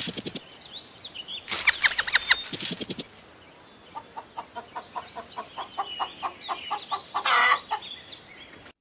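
Birds chirping: two quick bursts of rapid, falling chirps, then a run of evenly spaced short calls, about four a second, with higher chirps over them and a short burst of noise near the end.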